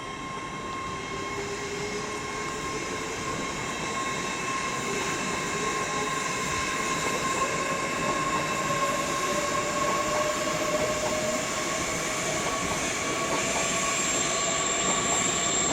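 Class 800 bi-mode train running on diesel power and pulling away, a steady whine slowly rising in pitch as it gets gradually louder.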